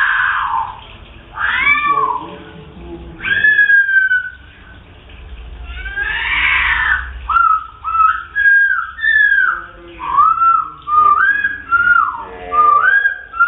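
Wambi birds calling: a series of short, arching notes that rise and then fall, mixed with a couple of harsher, hissing calls, the notes coming quicker and overlapping in the last few seconds.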